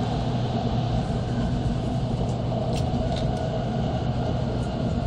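Cabin noise inside an N700-series Tokaido Shinkansen car running at speed: a steady rumble and hum, with a couple of faint ticks about three seconds in.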